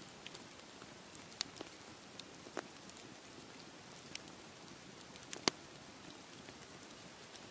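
Wood campfire crackling, with scattered sharp pops, the loudest about five and a half seconds in, over a steady hiss of waves on the shore.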